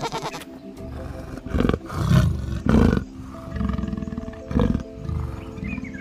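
Background music with a large animal's deep roars, several in a row about a second apart.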